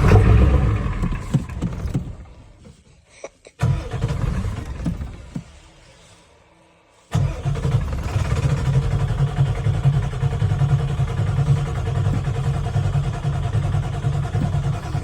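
Ford 7.3-litre diesel being cold-started with starting fluid. Twice it fires in a sudden burst and dies away. Then about seven seconds in it cranks or runs steadily for some eight seconds before cutting off sharply: a hard, rough start on a cold engine.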